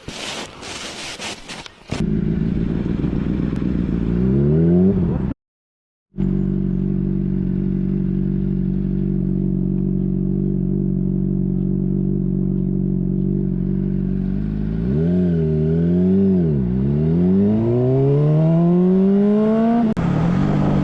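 Motorcycle engine running at a steady speed, then dipping and swinging in revs and rising in a long smooth climb as it accelerates. The audio briefly cuts out about five seconds in.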